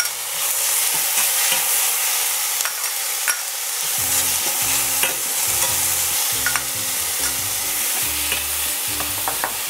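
Pounded chilies, garlic, shallots and ginger sizzling in hot oil in a stainless-steel frying pan as a spatula stirs and scrapes them, with scattered clicks of the spatula against the pan.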